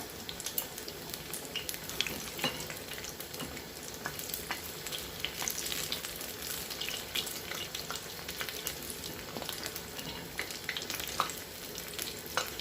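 Batter-coated mutton chops frying in hot oil over a medium flame: a steady sizzle with frequent sharp crackles and pops.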